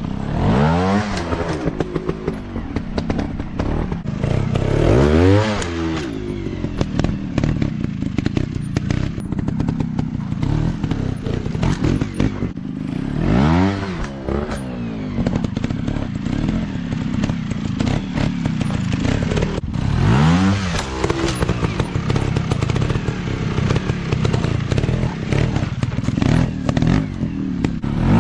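150 cc dirt bike engines running, blipped up sharply and back down five times, with rattling and knocks throughout.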